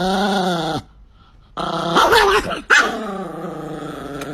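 A dog vocalizing in three drawn-out calls whose pitch rises and falls. The first lasts under a second, and two longer ones follow after a short pause.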